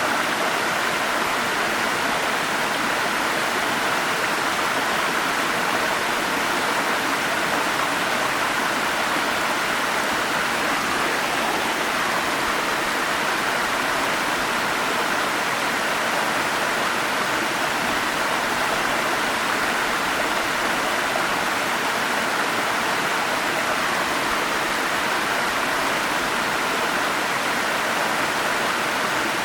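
Forest stream rushing over a small waterfall, a steady, even rush of water.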